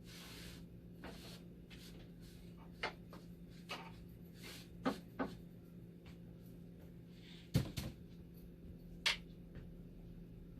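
Scattered sharp clicks and knocks of parts and hand tools being handled during a dialysis machine power-supply repair, about half a dozen, the loudest a double knock about three-quarters of the way through, over a steady low hum.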